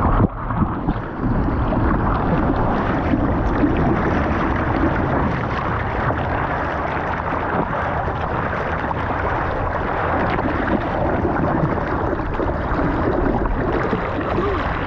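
Ocean water rushing and sloshing steadily in the surf, with some wind noise.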